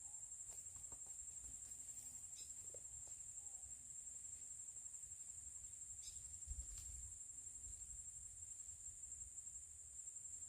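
Faint, steady high-pitched drone of insects, unbroken throughout, with a few faint clicks.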